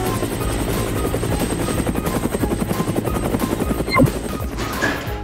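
Cartoon helicopter rotor sound effect, a fast steady chopping as the toy helicopter comes down to land on its pad, with a short falling sweep about four seconds in.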